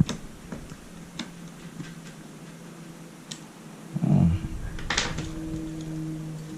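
A few light clicks and ticks of a small screwdriver working at stubborn screws in a laptop, with a brief low thump about four seconds in.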